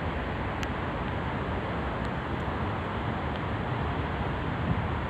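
Steady outdoor background noise, an even hiss over a low rumble, with a few faint clicks.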